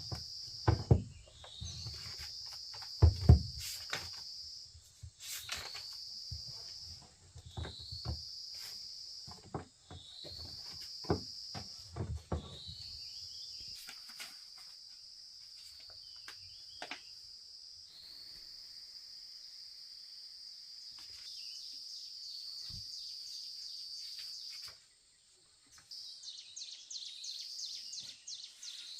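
Insects calling in a shrill, high buzz. Each call sweeps up at its start and repeats every couple of seconds, then the buzz holds steady for about twelve seconds and breaks into fast pulsing near the end. Dull knocks and thumps sound over it during the first half.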